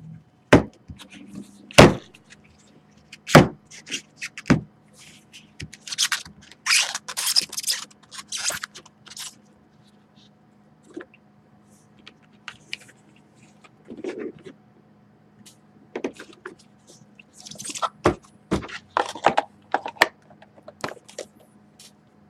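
Sharp knocks and taps, then bursts of crinkling and rustling, from a sealed box of trading cards being opened and unwrapped by hand.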